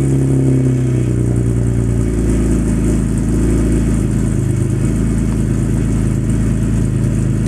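V6 Ford Mustang exhaust through dual Magnaflow mufflers: the engine speed drops off over the first couple of seconds and then settles into a steady idle.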